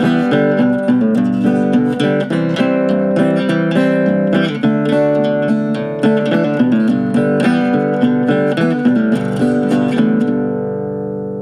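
Instrumental outro of a folk song, led by strummed and picked acoustic guitar. About ten seconds in, the playing stops on a last chord that rings and fades.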